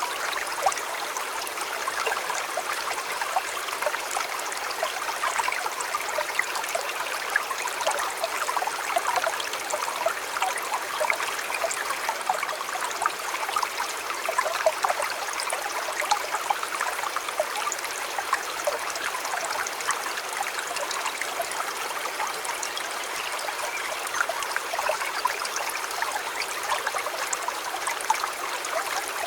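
A shallow river or stream flowing and babbling steadily over stones, with fine splashing and trickling throughout.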